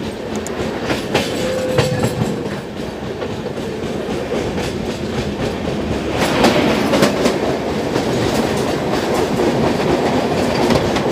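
A train rolling on the rails, its wheels clacking over the rail joints amid a steady rumble, growing louder about halfway through.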